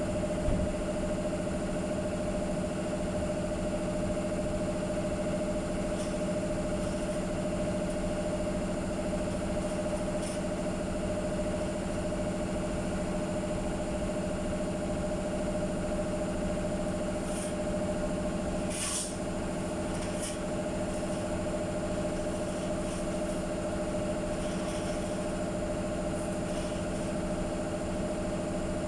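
A steady mechanical hum holding two steady tones, with a short burst of hiss about two-thirds of the way through.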